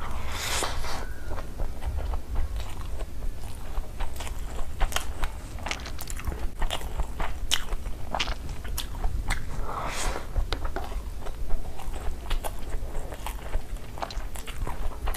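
Close-miked chewing of a mouthful of chicken biryani, with many short sharp wet mouth clicks and smacks throughout.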